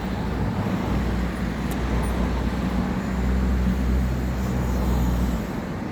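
Street traffic: a motor vehicle's engine running close by with a low, steady hum that drops off near the end.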